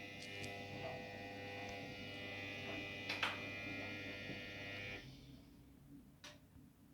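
Samsung Diamond washing machine's drum motor running with a steady electric hum and buzz, with a click about three seconds in; the motor stops about five seconds in, a pause in the wash agitation cycle.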